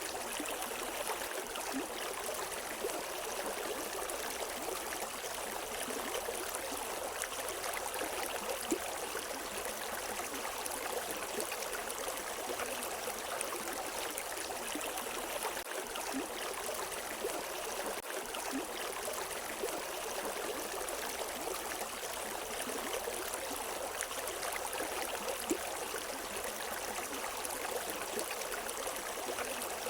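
River water running steadily over rocks, a constant rushing with small splashes and gurgles and no birdsong.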